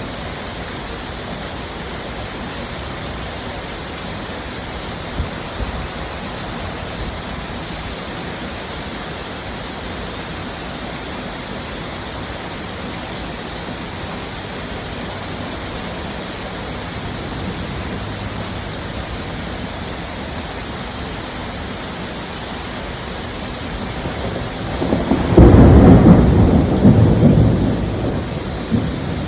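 Heavy, steady torrential rain. Near the end a loud rumble of thunder breaks in and then slowly rolls away.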